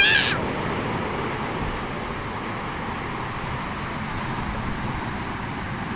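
Steady rush of heavy ocean surf with wind on the microphone. A short rising voice is heard right at the start.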